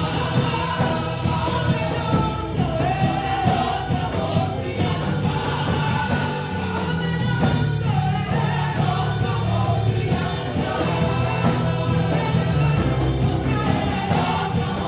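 Live worship music: a band with a steady beat and a singer, or several singing together, carrying a melody.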